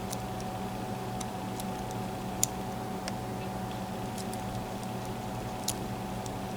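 Small metallic ticks and clicks of a lock pick working the pin-in-pin tumblers of a Mul-T-Lock MT5+ lock, two of them sharper, about two and a half and five and a half seconds in, over a steady hum.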